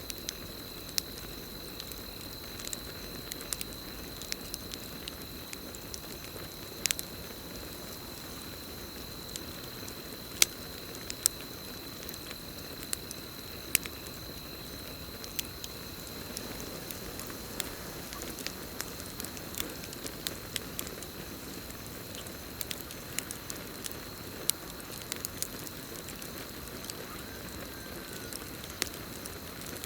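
Campfire crackling: irregular sharp pops and snaps over a steady hiss of burning wood, with a continuous high cricket chorus behind it.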